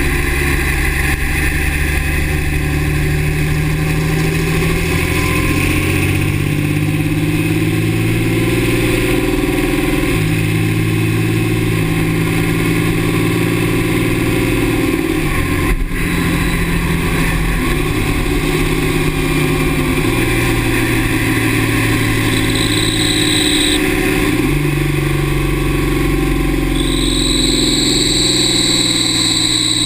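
2009 Dodge Ram's 6.7 Cummins inline-six turbo diesel running, its pitch stepping up and down several times. A high steady squeal comes in briefly about three quarters of the way through, then again near the end. The owner hears this squeal only with the exhaust brake engaged and thinks it comes from the turbo.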